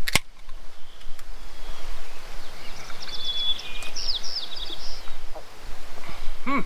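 Steady outdoor background noise with a small bird chirping a quick run of short high notes about three to five seconds in. There is a sharp click right at the start.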